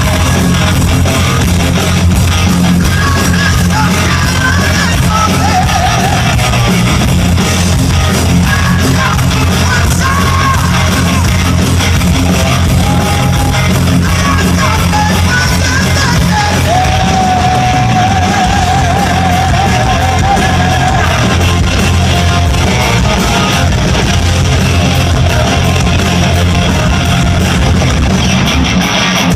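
Live heavy rock band playing loud, with distorted guitars, a steady heavy low end and a voice yelling and singing over it in a large hall.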